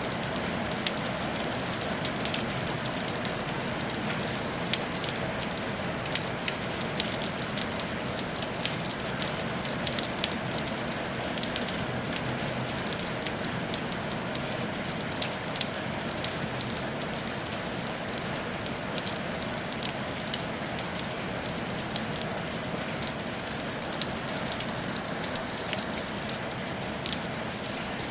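Steady rain falling on a traditional tile roof: a continuous hiss with many individual drops tapping sharply on the tiles.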